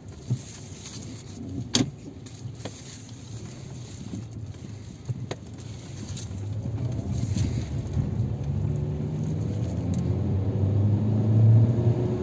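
Kia K5 car driving and picking up speed: the engine and road noise grow steadily louder over the second half. A few sharp clicks sound in the first few seconds.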